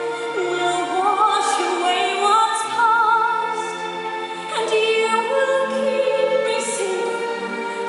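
Operatic-style singing with vibrato in a musical-theatre duet, over sustained orchestral accompaniment.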